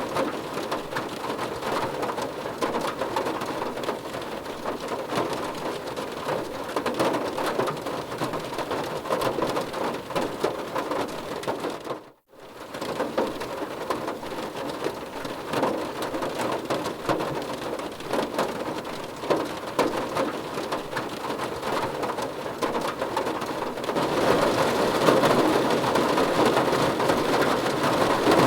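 Rain falling on a car's roof and windows, heard from inside the car: a dense, steady patter of drops. It cuts out abruptly for a moment about twelve seconds in, then comes back, and it grows louder near the end.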